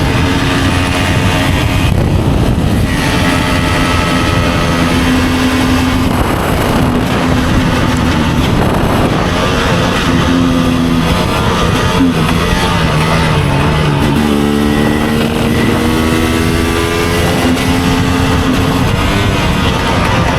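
2024 GasGas EC300 single-cylinder two-stroke dirt bike engine running under way, its pitch holding, then rising and dropping several times as the revs change through the gears.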